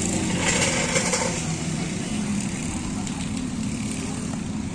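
BMW E46 sedan's engine running at steady revs while the car slides sideways in a slow drift.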